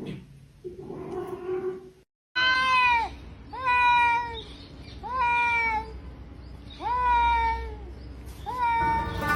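A cat meowing five times, in loud drawn-out calls about a second apart. Each call drops in pitch and then holds, and the last one is shorter.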